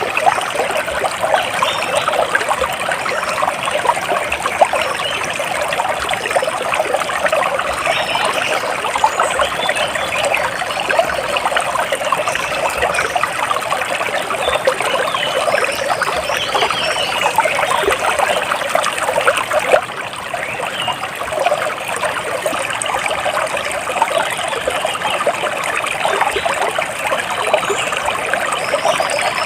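Water steadily trickling and splashing, with a slight dip in level about twenty seconds in.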